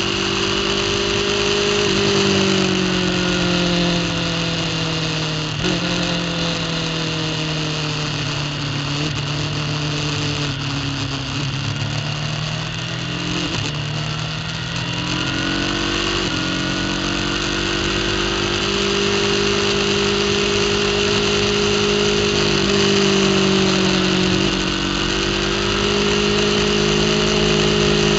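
Superbike engine running hard under racing load, heard through an onboard camera mounted on the bike. Its pitch jumps abruptly several times at gear changes and slides down and back up as the rider slows and accelerates, over a steady hiss.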